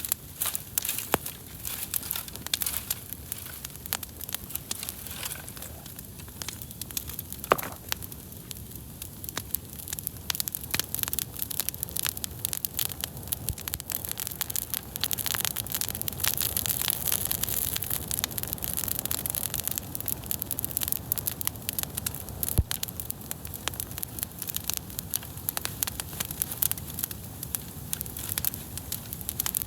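Wood campfire crackling, with many sharp irregular pops over a steady hiss.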